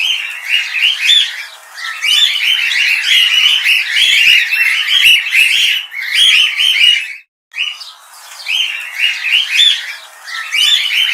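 Cockatiel chirping and chattering in a fast, continuous run of short high notes. There is a brief break about seven seconds in, and the sound cuts off suddenly at the end.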